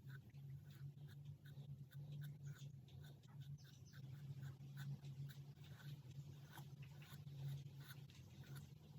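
Charcoal scratching on paper in quick, short strokes, roughly three or four a second, faint, over a steady low hum.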